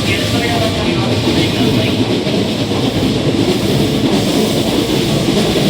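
Hankyu 1000 series electric train running as it pulls away, a loud, steady rumble of motors and wheels on the rails.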